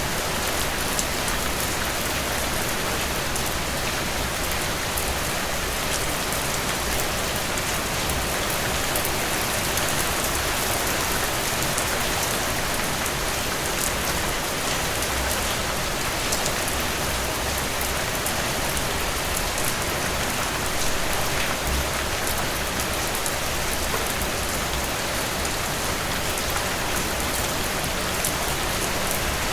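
Heavy rain pouring steadily, a dense even hiss with the fine patter of drops hitting a surface.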